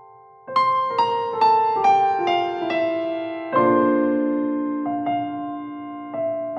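Background piano music: a run of single notes stepping downward, about two a second, then slower held chords.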